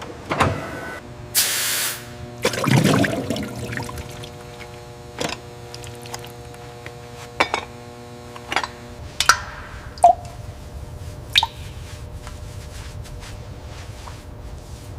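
A series of sharp knocks and clacks, irregularly spaced, with a short burst of hiss about a second and a half in, over a steady hum that stops about nine seconds in.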